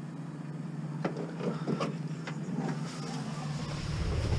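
A vehicle engine running with a steady low hum, with a few light knocks and rattles; a deeper rumble builds near the end.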